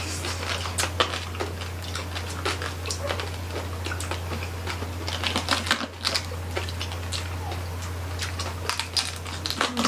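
Close-miked chewing and crunching of crispy roasted pig skin (lechon), a dense run of quick crackly clicks, over a steady low hum.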